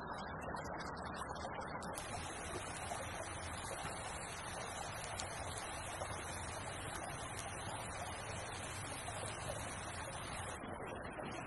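Small creek flowing: a steady rushing of water.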